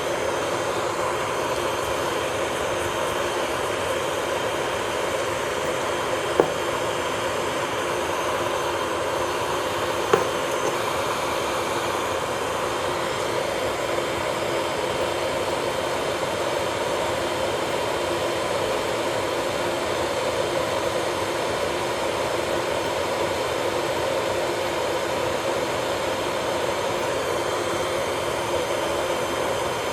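Electric nail drill (e-file) running steadily with a constant whine, not changing speed. Two short sharp clicks come about six and ten seconds in.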